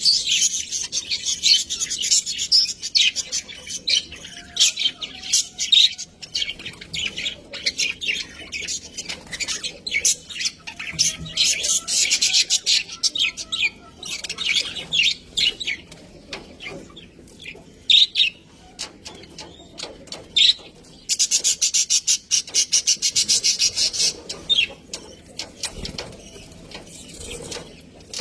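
Budgerigars chattering and chirping in fast, high warbling runs, with a long stretch of rapid ticking chatter near the end.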